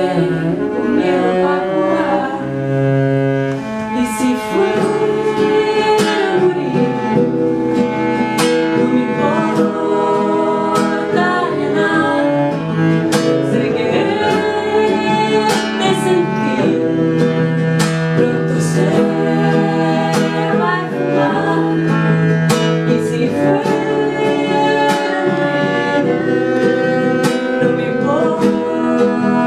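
Live acoustic ensemble playing an instrumental passage: plucked strings with a bowed string instrument holding long notes.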